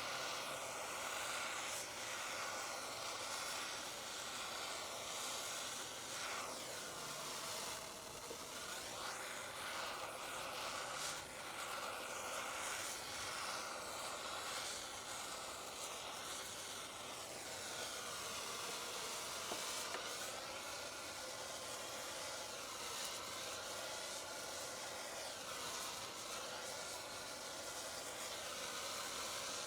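Handheld propane torch burning with a steady hiss as its flame is played over cedar wood to char and darken it, the tone slowly sweeping up and down as the torch moves.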